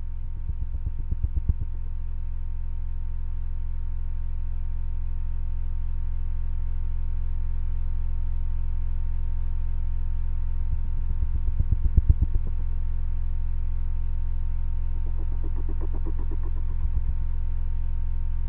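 Steady low droning hum holding several fixed tones. Pulsing rumbles swell over it about a second in and again around twelve seconds, and a fainter pulsing, higher-pitched sound rises briefly near the end.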